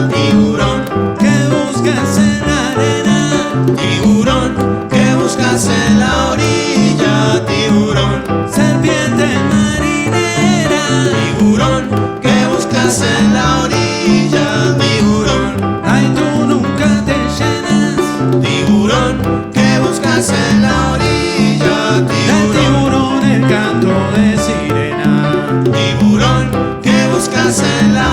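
Live salsa band playing a mostly instrumental passage, with plucked strings over a steady driving rhythm.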